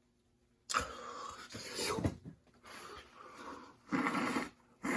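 A person breathing hard and noisily in several forceful bursts through nose and mouth, from the burn of very hot wing sauce. The first burst comes about a second in.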